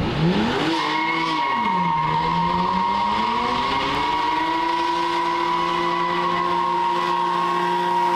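BMW sedan's engine revving hard as the car spins its rear wheels and slides on loose dirt. The revs shoot up and drop back about a second in, then climb slowly and hold high for the rest of the slide, over the hiss of tyres skidding.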